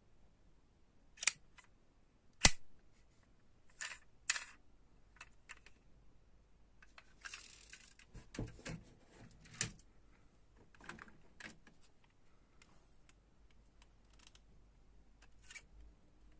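Diecast toy cars and their packaging being handled: a scattering of sharp clicks and light knocks, the two loudest a little over a second and about two and a half seconds in, with a brief rustle about seven seconds in.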